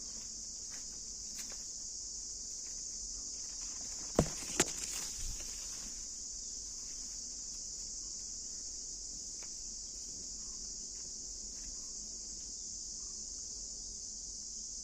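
A steady high-pitched chorus of insects droning without a break, with two sharp knocks about four seconds in.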